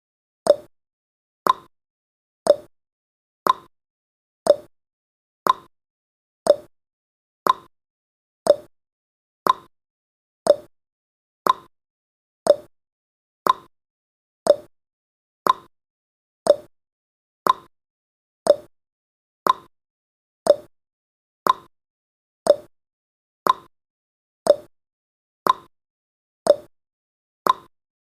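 Countdown timer's tick sound effect: one short, sharp tick every second, evenly spaced and unchanging, each dying away quickly.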